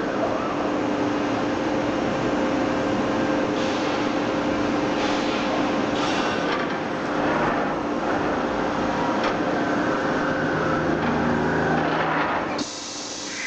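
Robotic MIG welding arc crackling and sizzling continuously over a steady machine hum, then cutting off abruptly near the end as the weld stops, leaving a steady fan-like hiss.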